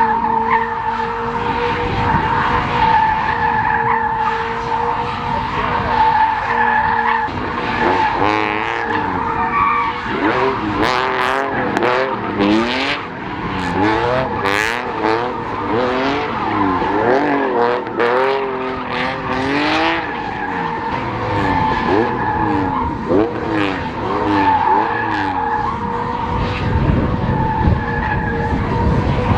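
Rally car engines revving hard, the pitch sweeping up and down again and again through gear changes over a steady high-pitched drone, with sharp cracks through the middle stretch.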